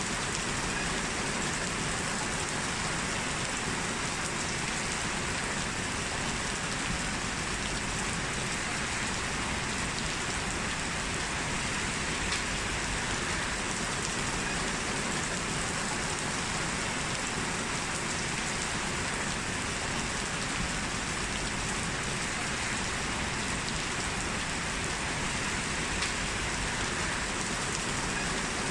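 Heavy rain falling steadily, an even hiss of rain with a few sharper drop ticks here and there.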